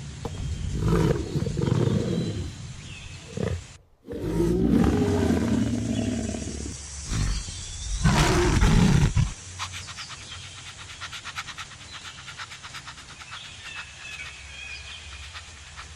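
Lion roaring and grunting in a series of deep, rough calls, broken by a sudden cut about four seconds in; from about nine seconds the calls stop and a quieter run of rapid, even ticks with faint high chirps follows.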